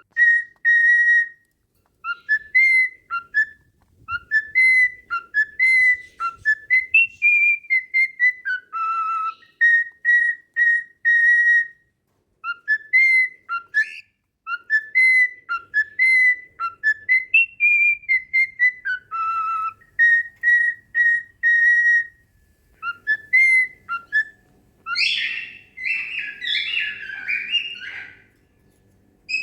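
A clear whistled tune of short up-slurred notes and held notes, played through once and then repeated the same way, as used to teach cockatiels to whistle. Near the end a few seconds of rougher bird chatter come in.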